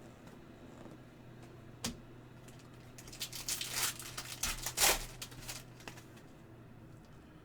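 Foil trading-card pack wrapper crinkling and tearing in a cluster of crackles about halfway through, after a single click.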